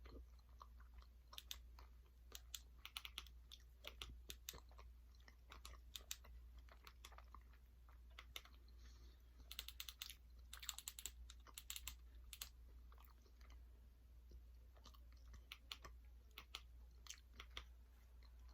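Faint sounds of a person chewing food, with many small irregular clicks from the mouth over a steady low hum.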